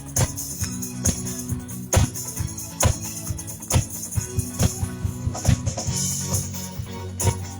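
Live band playing an instrumental passage: a steady drum beat with strong hits about once a second over a bass line and high, hissing percussion, with no singing.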